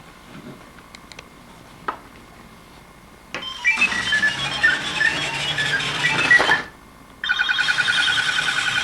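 Electronic toy sounds from a small speaker: a jingle of quick beeping notes lasting about three seconds, then after a short pause a fast, evenly warbling beep pattern.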